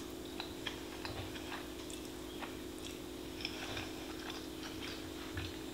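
A person chewing a mouthful of soft stir-fried noodles, with small irregular wet mouth clicks over a steady low hum.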